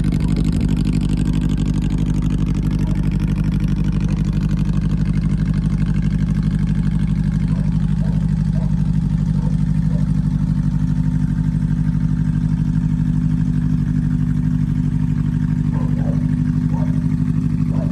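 Honda CB400 Super Four's inline-four engine idling steadily through an aftermarket LCI exhaust muffler.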